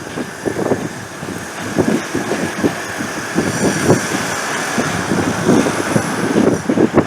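Electric train running on the rails, a steady rumble of wheels with irregular knocks, and a faint high whine that comes in about halfway.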